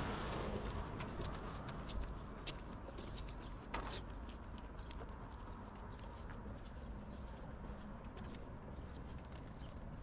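Outdoor street ambience: a passing car fading away at the start, then a scattering of sharp, irregular taps and clicks over a steady low background.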